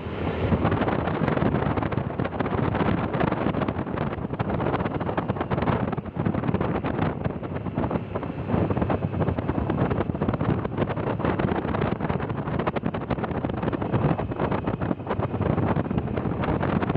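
Wind buffeting the microphone of a moving vehicle, with the vehicle running underneath in a steady, fluttering rumble.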